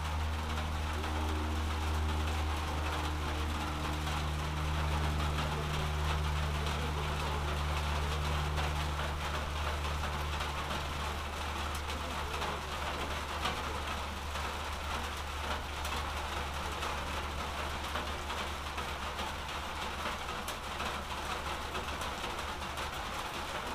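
Steady rain falling, an even hiss, with a low engine drone underneath that fades away about halfway through.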